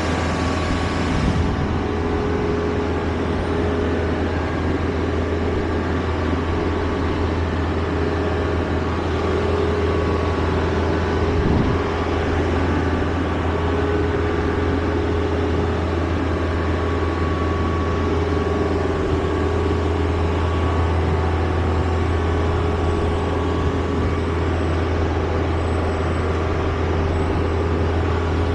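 Steady drone of a running motor vehicle's engine with road or machinery noise, unchanging throughout, with one faint knock partway through.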